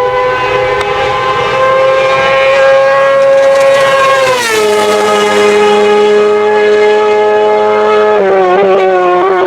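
Hillclimb race car's engine running hard at high revs. Its pitch climbs slowly, drops sharply about four and a half seconds in, then holds steady and wavers a little near the end.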